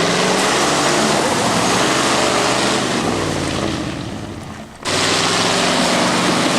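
Truck driving along a rough dirt road, engine running under a loud wash of tyre and road noise. The sound fades and breaks off about four and a half seconds in, then comes back abruptly.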